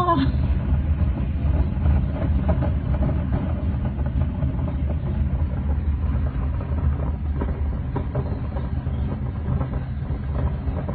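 Strong typhoon wind blowing steadily, heard as a low rumble with faint rattles through it.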